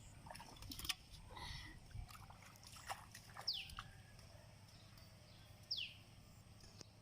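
A bird giving a short, high call that sweeps downward, twice a couple of seconds apart, over faint splashing and knocking in the water.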